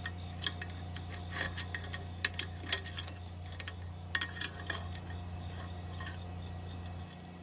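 Scattered light metal clicks and clinks of hand tools against a small lawnmower engine's valve springs and valve parts as they are worked loose, with one sharper clink about three seconds in that rings briefly. A steady low hum runs underneath.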